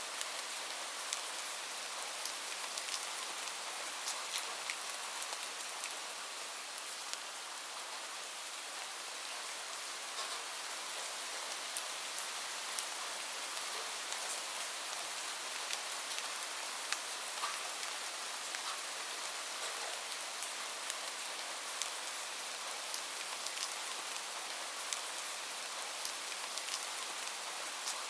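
Steady rain with many small drops ticking on a hard surface.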